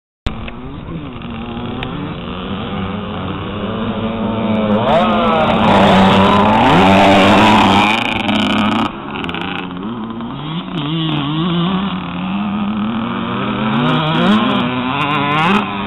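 Motocross bike engine revving up and down over and over, its pitch climbing and falling. It starts abruptly and is loudest about five to eight seconds in.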